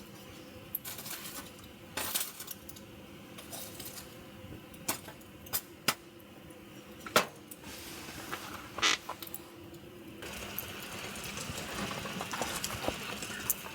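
Scattered sharp metallic clinks and taps, like small metal objects being handled. A steady hiss grows louder from about ten seconds in.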